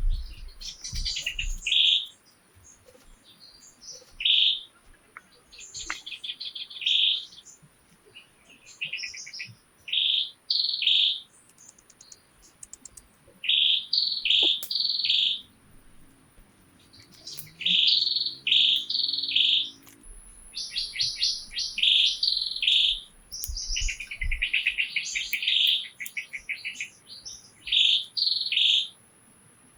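A bird chirping over and over in short bright phrases, a new phrase every second or two. A faint steady high-pitched tone runs underneath and grows stronger about two thirds of the way through.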